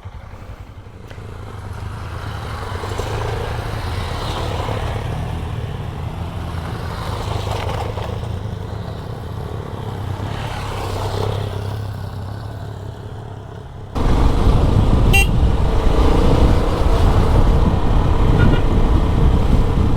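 Motorcycle running along the road, its engine note rising and falling with the throttle. About two-thirds of the way through it cuts abruptly to a louder, rougher rumble of engine and road noise.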